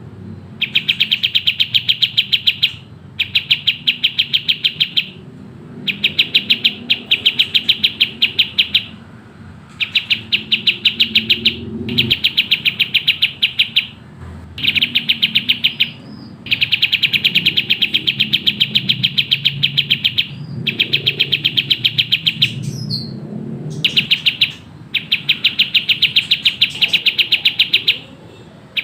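Kapas tembak bird singing in fast, tightly packed bursts: about ten runs of rapid, evenly spaced chattering notes, each one to three seconds long, with short pauses between them. A short falling whistle comes once, a little past the middle.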